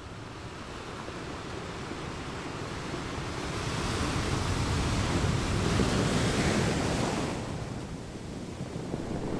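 Wind buffeting the microphone over open sea, with waves washing. It builds to a loud rushing hiss from about four seconds in, then eases off near seven seconds.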